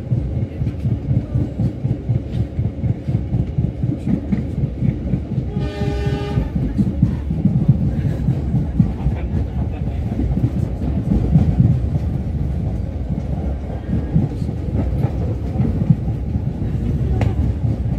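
Passenger train running along the track, heard from inside the coach: a steady low rumble with clattering of wheels over the rails. A horn sounds once, briefly, about six seconds in.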